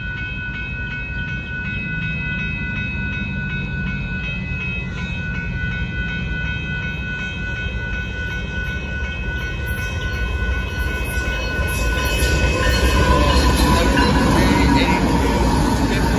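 Grade-crossing warning bell ringing steadily as a Union Pacific diesel freight locomotive approaches; the engine's low rumble builds over the last few seconds as it reaches the crossing and becomes the loudest sound.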